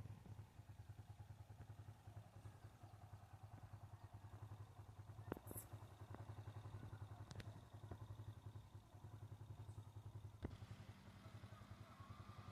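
Faint, steady low engine drone with a rapid pulsing, broken by a few soft clicks.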